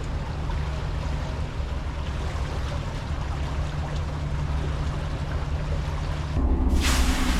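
Sauna boat's engine running with a steady low hum while water rushes under the hull. Near the end the engine note shifts lower and louder, and a sudden loud hiss breaks in.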